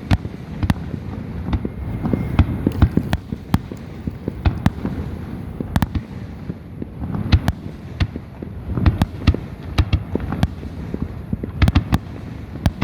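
Fireworks going off in a continuous barrage: many sharp cracks and bangs at irregular intervals over a steady low rumble of distant bursts.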